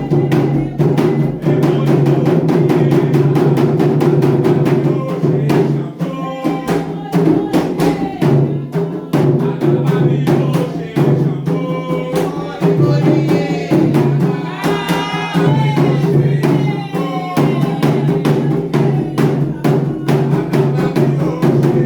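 Candomblé atabaque hand drums playing a fast, dense rhythm, with voices singing over the drumming in places, most clearly past the middle.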